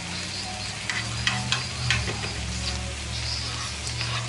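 Beaten egg sizzling as it is poured into a hot, oil-sprayed frying pan, with steak patties and onions frying beside it. A few sharp clicks of a spoon against the plastic bowl come between one and two seconds in, over a steady low hum.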